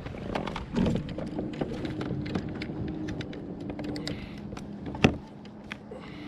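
Kayak pedal drive being worked while trolling: a steady hum with many small clicks and knocks. One sharp knock about five seconds in.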